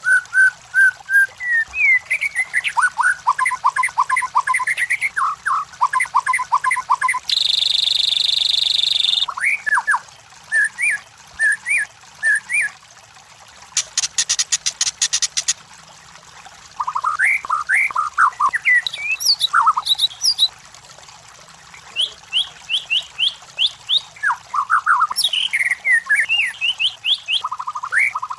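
White-rumped shama (murai batu) singing: rapid, varied whistled phrases that glide up and down, broken by short pauses, with a buzzy rattle about seven seconds in and a fast ticking trill about fourteen seconds in.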